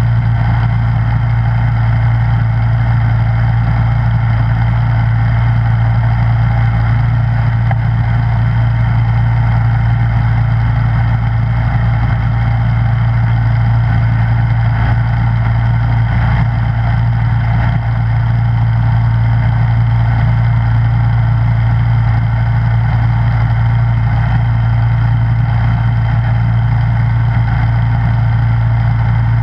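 Snowblower engine running steadily with a constant low hum that holds the same pitch throughout.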